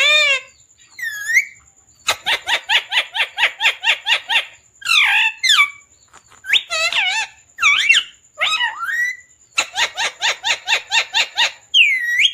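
Pet parrot chirping and squawking: two fast runs of short, shrill chirps at about ten a second, with longer swooping calls in between.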